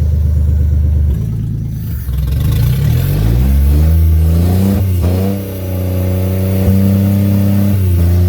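Buick Century engine revving up about two seconds in and held at high revs, dipping briefly around five seconds, then climbing again before falling back near the end.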